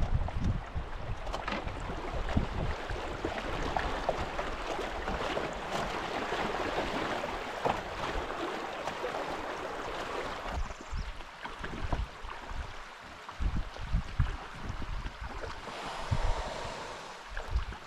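River water rushing steadily, dying down about ten seconds in and swelling again briefly near the end, with gusts of wind buffeting the microphone throughout.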